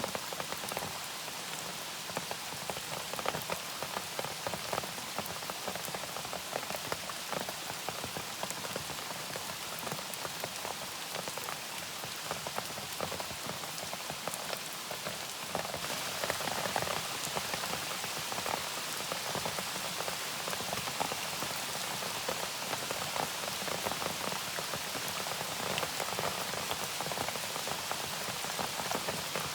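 Steady rain falling, with many small separate drop hits over an even hiss; it gets a little louder about halfway through.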